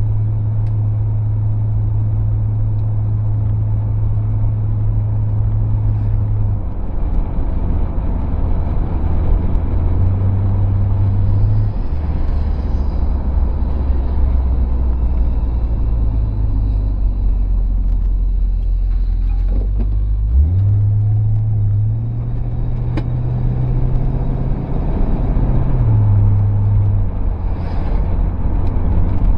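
The V8 of a 1968 Ford Torino GT convertible running under way, heard from inside the cabin with road noise. Its engine note drops in steps in the first half, rises sharply about two-thirds of the way through as the car pulls away again, then settles lower near the end.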